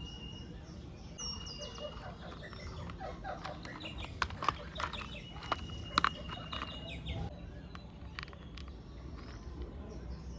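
A few sharp clicks and taps of screws being tightened into a plastic toy car body, loudest between about four and six seconds in, over birds chirping in the background.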